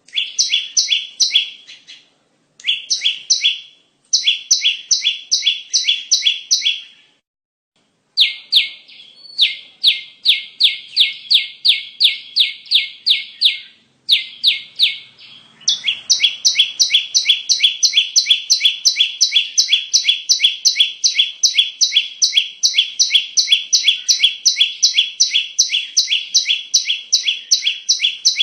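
Bar-winged prinia (ciblek) call played as a bird lure: rapid, evenly repeated sharp chirps, about four a second. The chirps come in runs broken by short gaps, then run on unbroken from about halfway.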